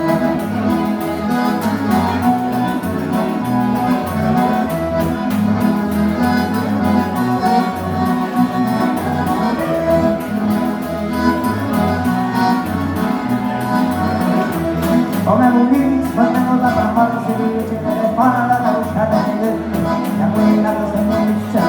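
Live gaúcho dance music led by a button accordion (gaita), with guitar and a steady, repeating bass beat.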